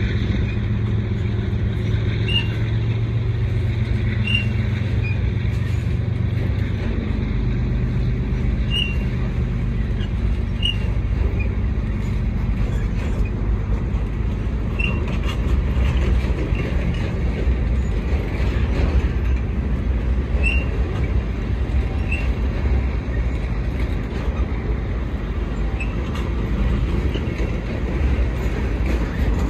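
Freight train hauling wind-turbine blades rolling past: a steady low rumble of the cars going by. A diesel locomotive's drone fades out in the first several seconds. Short high chirps come every couple of seconds.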